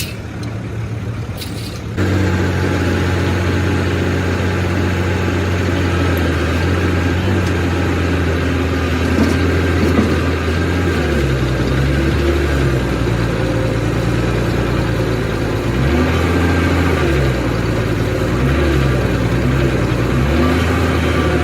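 Bulldozer diesel engine running, getting suddenly louder about two seconds in, then its pitch stepping up and down several times as the engine speed changes.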